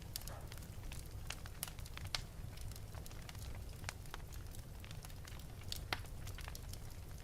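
Wood fire burning in an open fireplace: a steady low rumble of the flames with irregular crackles and a few louder pops.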